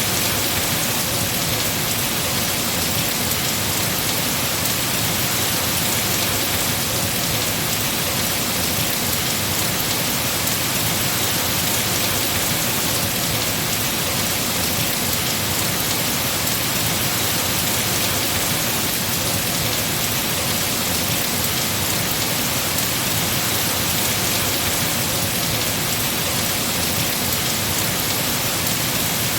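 Heavy rain falling steadily on trees, an even, unbroken hiss of downpour.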